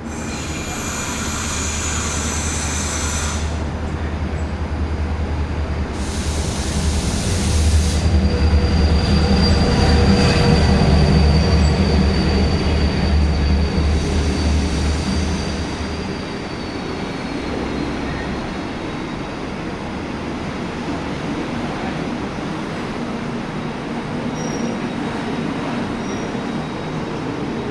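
Train running through a station, its low rumble building to its loudest about halfway through and easing off after about sixteen seconds. A thin, high wheel squeal runs through the loudest part and sinks slightly in pitch as it fades.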